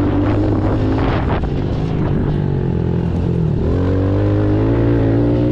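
Pit bike engine running while riding; the pitch drops about three seconds in, then climbs steadily as the bike speeds up.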